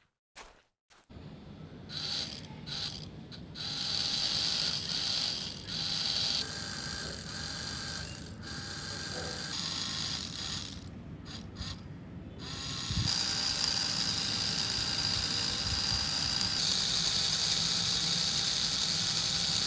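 Small electric motor and its gears in a homemade model machine, whirring with a high whine. It starts about a second in, cuts out and restarts a few times, then runs steadily and louder through the second half.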